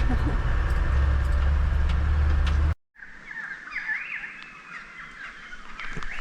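A loud, steady low rumble that cuts off about three seconds in, followed by birds chirping and calling with quick rising and falling notes.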